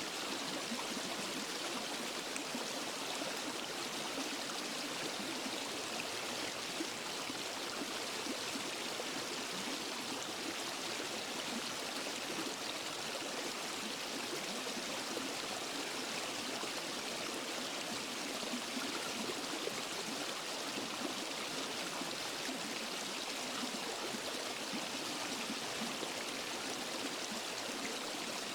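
Water rushing steadily over rocks in a forest stream below a waterfall, an even, unbroken rush with a light trickling texture.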